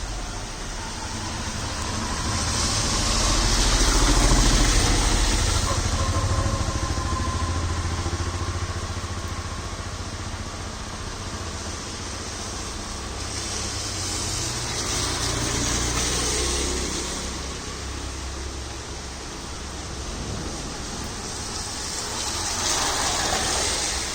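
Vehicles driving past on a wet road, their tyres hissing on the wet surface over engine rumble. Three go by: the loudest about four seconds in, another about halfway through and a third near the end.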